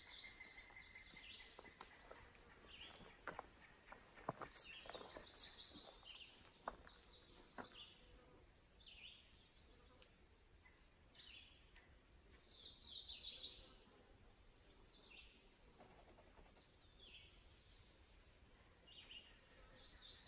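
Faint woodland birdsong: a songbird repeating short, high phrases every second or two. Scattered light clicks and rustles come in the first half.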